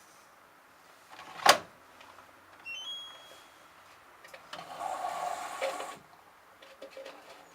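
LG F1222TD washing machine: a sharp loud click, then a quick rising run of faint electronic beeps, then about a second and a half of rushing noise that cuts off suddenly.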